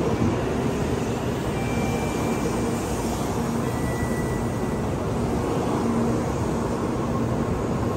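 Shinkansen bullet train rolling slowly into the station alongside the platform: a steady rumbling rush of wheels and air as it comes to a stop, with faint brief whistling tones in the first half.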